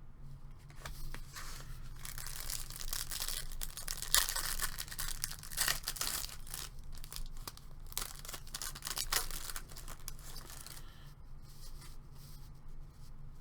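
Trading-card packaging, plastic and foil wrapping, being torn open and crinkled by hand: a long run of crackling tearing, loudest around the middle, that dies down to a few light rustles near the end.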